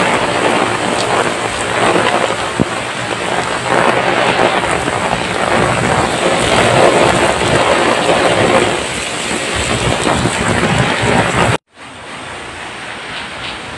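Heavy rain pouring onto paved ground, a loud, even hiss. About eleven and a half seconds in it cuts off abruptly and comes back as a quieter, steadier hiss.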